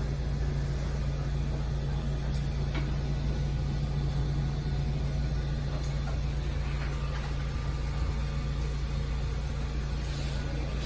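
Steady low hum with no change in level, and a few faint ticks over it.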